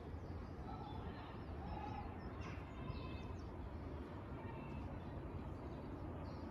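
Birds calling faintly, short chirps and whistles now and then, over a steady low outdoor rumble.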